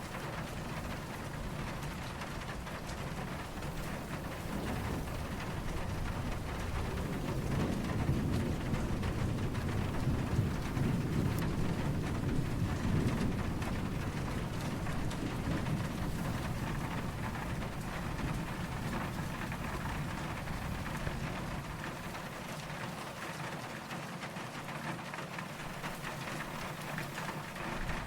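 Steady rain falling, with a low rumble of distant thunder that swells for several seconds near the middle and then fades.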